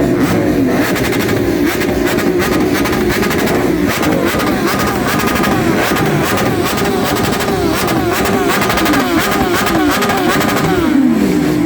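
Car engine revving repeatedly through a loud exhaust, its pitch climbing and dropping again and again. One long fall in pitch comes near the end, with voices in the background.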